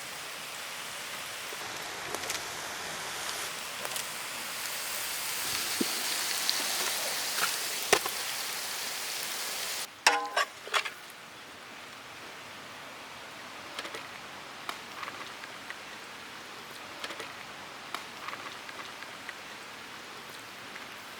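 Chicken and egg scramble sizzling in the pan over the fire, an even hiss with occasional pops that slowly grows louder. About halfway through it cuts off abruptly to quieter background with scattered clicks and a short voice.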